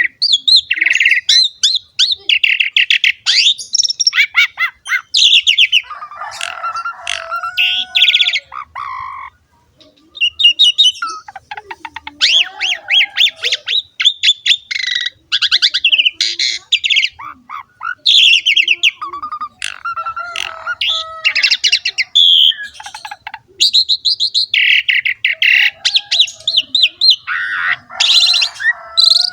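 Asian pied starling (jalak suren) in full song, a continuous run of varied phrases of whistles, fast clicking trills and harsh squawky notes, with a short pause about nine seconds in.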